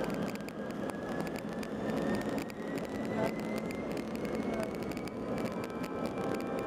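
Airbus A319 jet engines running, with a thin whine that rises slowly and steadily in pitch over a continuous rumble, as the engines spool up.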